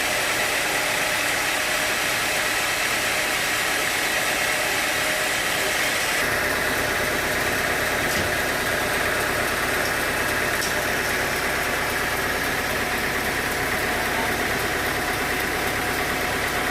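Sawmill machinery running steadily, with a constant high hum. About six seconds in the sound changes abruptly and a deeper rumble joins in.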